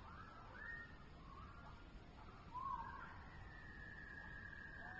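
Faint bird calls: short rising and falling whistled notes, then one long, steady whistle in the second half, over a low rumble of wind on the microphone.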